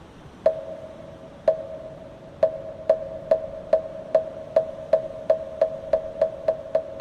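A moktak, the Korean Buddhist wooden fish, struck with its mallet: single hollow knocks about a second apart that steadily speed up into a quickening roll. Each knock has a short ring.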